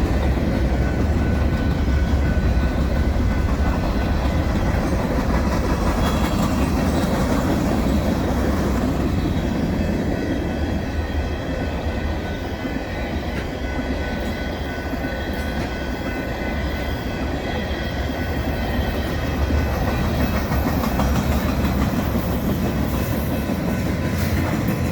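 A long mixed freight train's cars rolling steadily past, wheels rumbling and clacking over the rail joints.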